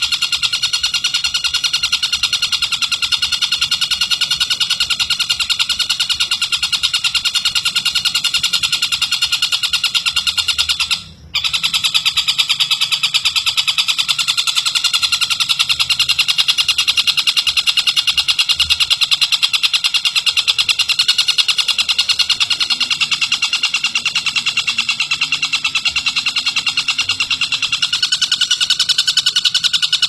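Tengkek buto (Javan kingfisher) call: a high-pitched, rapid pulsing trill that runs on without pause and cuts out briefly about eleven seconds in.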